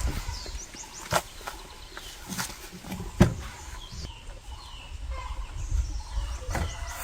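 Rural outdoor ambience: birds chirping with short high calls, and three sharp knocks a second or so apart, the last the loudest, over a low rumble.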